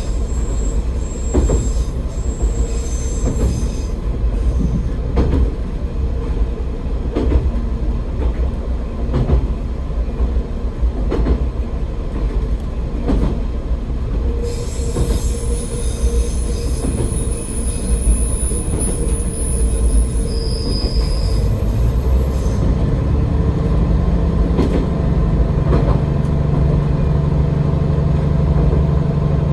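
AN-8800 diesel railcar running, heard from the cab: wheels click over rail joints every second or two under a steady rumble. A high wheel squeal comes in through the middle stretch, and near the end the engine note rises and then holds steady.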